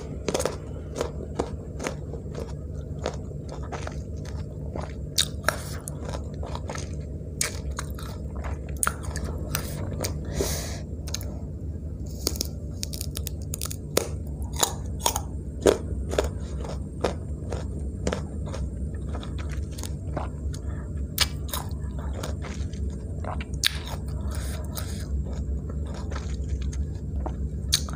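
Crisp slices of unripe mango being bitten and chewed close to the microphone: dozens of sharp, irregular crunches over a steady low hum.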